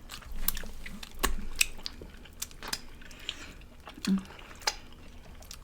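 Close-up chewing and biting of barbecue ribs, with irregular wet mouth clicks and smacks.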